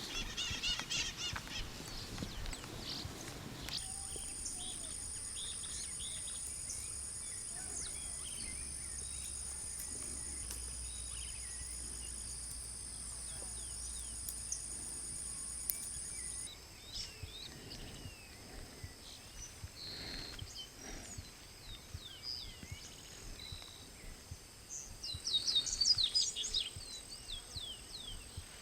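Forest ambience with birds chirping and calling. A steady high-pitched buzz runs under them for the first half and cuts off suddenly, and a quick flurry of bird calls near the end is the loudest moment.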